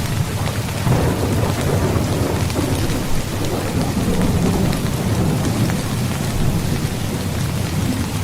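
Heavy rain pattering steadily, with a low rumble of rolling thunder that swells about a second in and carries on through the middle.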